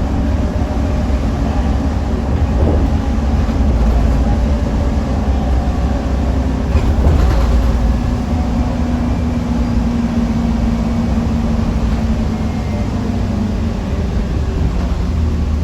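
Scania K310UB bus's diesel engine running under way, a steady low rumble, with a steady hum rising over it for a few seconds in the middle and a couple of brief knocks.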